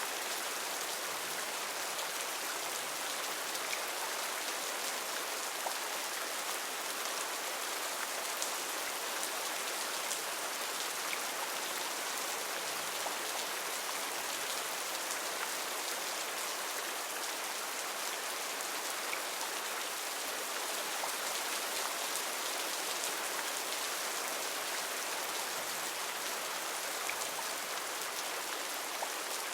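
Heavy rain falling steadily in a rainforest, a dense even hiss with scattered individual drops.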